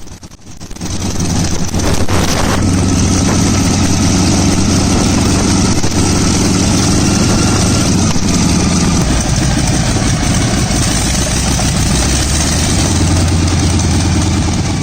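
Shvetsov ASh-62 nine-cylinder radial aircraft engine, rising to a steady run within the first two seconds and running evenly after that.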